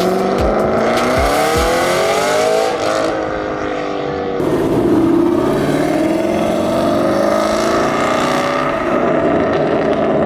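Supercar engines revving and accelerating hard, the pitch climbing for the first few seconds and then dropping. About four seconds in, the sound changes abruptly and another engine pulls away with a slower rising note.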